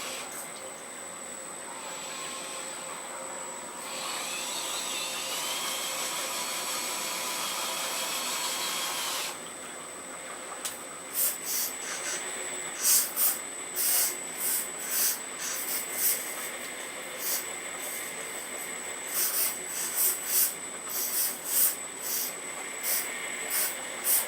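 Earth Digger 4200XL RC hydraulic excavator working, its hydraulic pump whining steadily. It gets louder for about five seconds with gliding tones, then gives way to many short, sharp hissing bursts in the second half as the machine's controls are worked.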